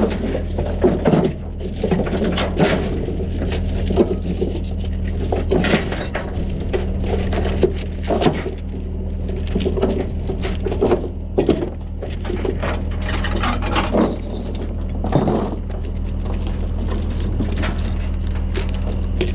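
Chains clinking and rattling in irregular bursts as tow chains are unhooked and handled, over a steady idling truck engine.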